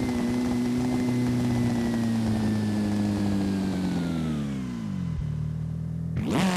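Simulated car engine from a driving video game, holding a steady note that slowly falls in pitch as the revs drop for about five seconds. After a brief dip, the revs climb sharply near the end.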